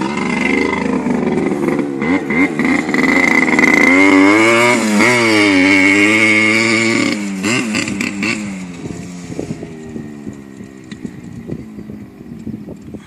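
Dirt bike engine revving up and down repeatedly, loudest around the middle. After about eight seconds it drops off to a lower, fading sound.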